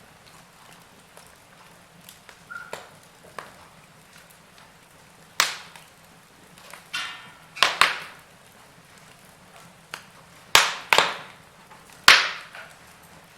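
Wood fire crackling: scattered small ticks, then several sharp loud pops from about five seconds in, with a brief hiss around the middle.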